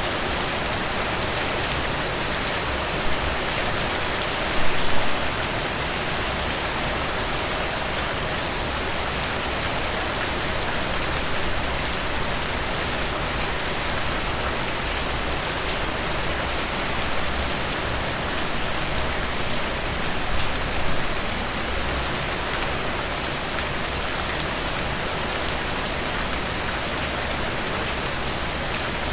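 Heavy rain falling steadily on a surface, dense pattering with individual drops ticking through it, swelling briefly louder a few times.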